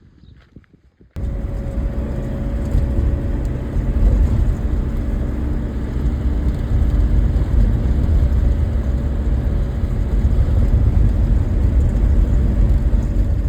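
Motor vehicle running at a steady drone, a low rumble with a faint steady hum. It starts abruptly about a second in.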